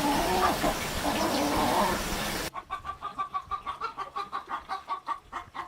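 Chicken clucking. After a loud, noisy first stretch, an abrupt cut about two and a half seconds in leaves a rapid run of short clucks, about eight a second.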